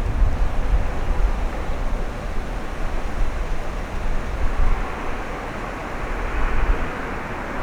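Wind gusting on the microphone as a low rumble, with the jet noise of an approaching Embraer ERJ-190 landing airliner swelling as a broad hiss from about halfway through.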